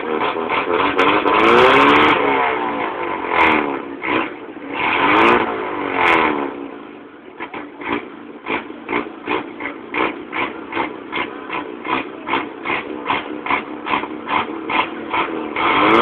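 Chevrolet Opala rat rod's engine revved up and down several times in the first half, then settling into a loping idle with about two to three uneven pulses a second. It revs again near the end.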